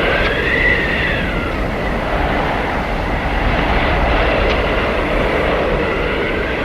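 Blizzard wind blowing hard: a steady, loud rush with a low rumble and a whistling tone that rises and falls in pitch.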